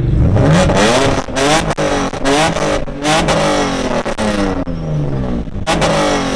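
A vehicle engine revving hard, its pitch climbing and dropping back again and again, about once a second.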